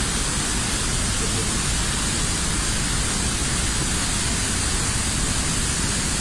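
Steady, loud roar of a large waterfall, an even rush of falling water with no breaks.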